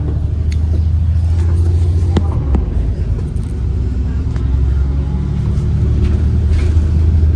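Bus engine running, a steady low drone with a few clicks and rattles; the drone drops for about a second and a half in the middle, then comes back.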